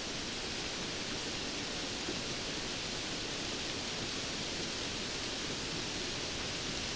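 Steady, dense rainfall: an even hiss of rain with no distinct drops standing out.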